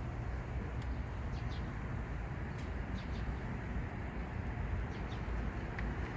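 Steady outdoor background noise with a low rumble, and a few faint, short bird chirps scattered through it.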